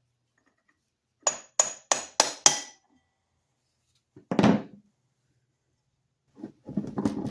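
Five quick hammer strikes on metal, about four a second, each with a short ringing tone, during the teardown of an antique electric motor. A single duller knock follows about two seconds later, then a spell of clattering metal parts near the end.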